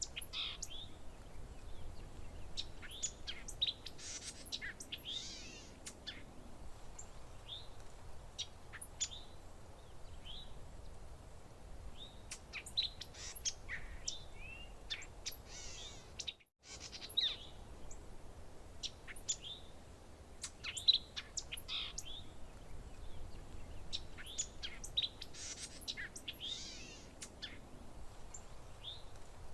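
Songbirds chirping and singing: many short, high chirps and trills, often overlapping, over a faint low background hiss. The sound drops out completely for a split second about halfway through.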